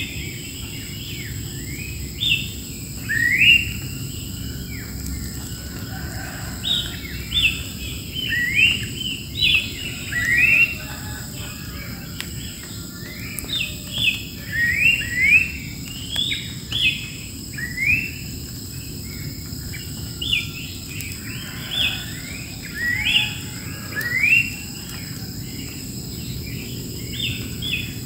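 Wild birds singing, a busy run of many short, quick chirping notes repeated throughout, over a faint steady high insect hum.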